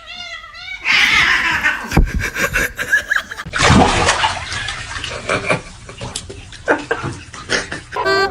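Cat vocalizing: a wavering, drawn-out yowl near the start, then shorter cries mixed with noisy rustling and scattered knocks.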